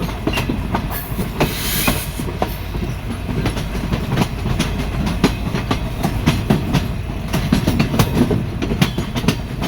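Train running on the rails: a steady low rumble with frequent irregular clicks and knocks of the wheels over the track.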